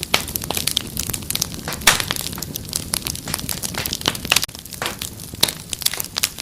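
Wood fire crackling: a steady low rumble of flames with frequent irregular sharp pops and snaps, a loud pop about two seconds in.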